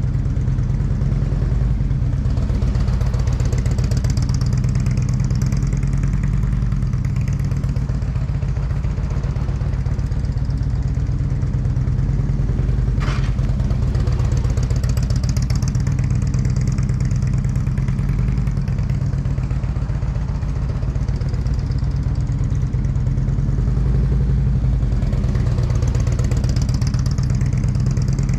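Motorcycle engine running steadily at low speed through slow, tight U-turns, with a higher hiss that swells and fades about every eleven seconds and a brief click about halfway through.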